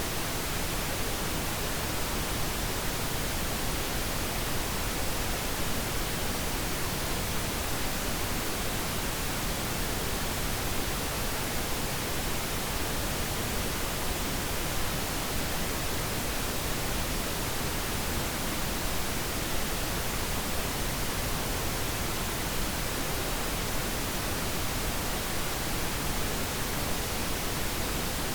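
Steady synthetic pink noise, an even hiss with no changes or events, played as a sleep aid for babies.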